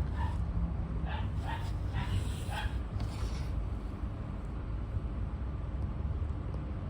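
An animal giving a run of short, high yipping calls, about five in the first three seconds, over a steady low rumble.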